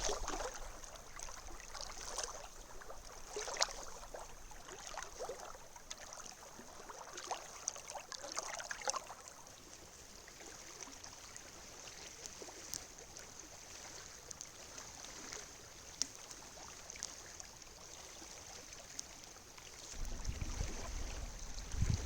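Small waves washing on a beach, with scattered sharp crackles and pops through the first half. Wind starts buffeting the microphone with a low rumble near the end.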